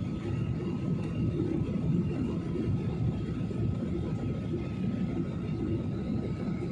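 Airliner noise during landing: a steady low rumble with a faint steady whine running through it.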